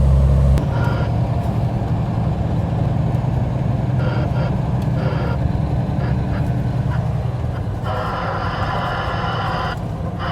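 Heavy truck engine running steadily, its low rumble easing a little about half a second in.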